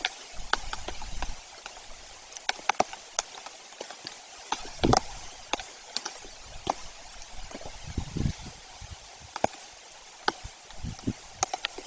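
Rain, with heavy drops tapping irregularly close to the microphone over a steady patter, and a few louder, deeper drops.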